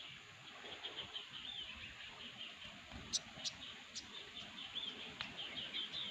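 Small bird twittering, a quick run of short high chirps, with three sharp clicks a little past three seconds in.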